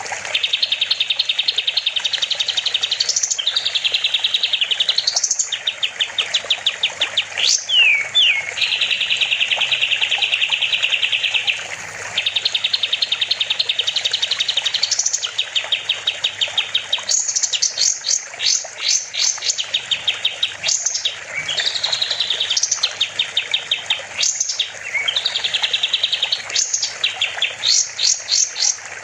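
A kapas tembak songbird singing loudly in long, rapid trills and strings of fast chirps, broken by sharp rising whistles and brief pauses, over a faint steady low hum.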